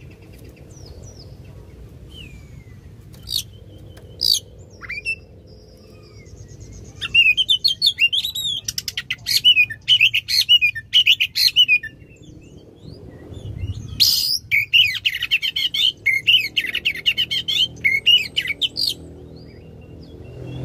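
Oriental magpie-robin (kacer) singing: a few scattered calls, then two long bursts of rapid, varied, loud song phrases a couple of seconds apart.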